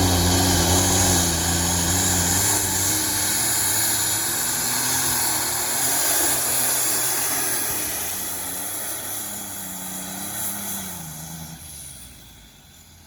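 Compound-turbocharged, alcohol-fuelled pulling tractor's engine running hard under load, its pitch wavering, with a high hiss over it. It fades away over the last few seconds.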